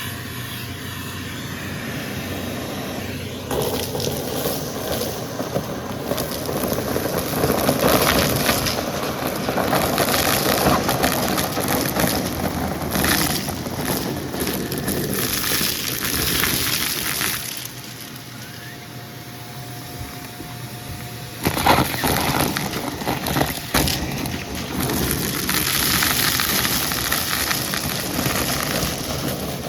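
Vacuum cleaner sucking up crunchy debris, a dense crackling crunch that swells and eases with each pass, easing off for a few seconds just past the middle before crunching loudly again.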